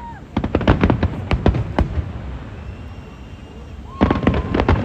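Fireworks going off in rapid volleys of sharp bangs, one burst of crackling reports in the first two seconds and another starting near the end, with thin whistling tones alongside.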